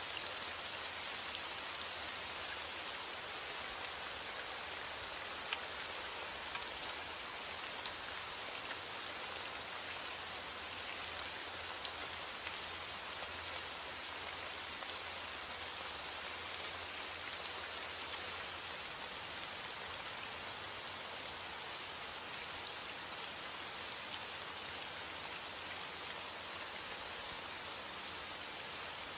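Steady rain falling on a surface, an even hiss scattered with countless small drop ticks.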